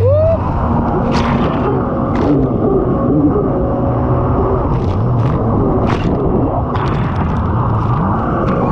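Jet ski engine running at speed, its pitch rising and falling, with a heavy wind rumble on the microphone and a few short, sharp slaps.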